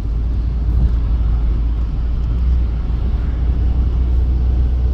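Low, steady rumble of a car on the move, heard from inside the cabin.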